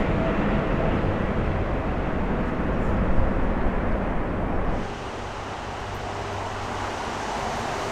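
Jet airliner engines running: a loud, steady rush of noise with a low rumble that drops abruptly about five seconds in to a quieter, steady engine sound with a low hum.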